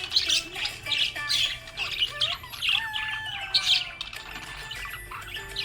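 Budgerigars chirping and squawking in quick, short, high calls, several a second, easing off briefly about four seconds in.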